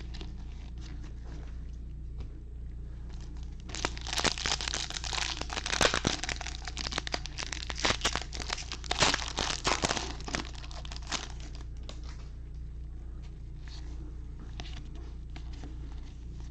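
Crinkling and crumpling of a foil trading-card pack wrapper being handled, most intense for several seconds in the middle, with lighter rustles of card handling before and after.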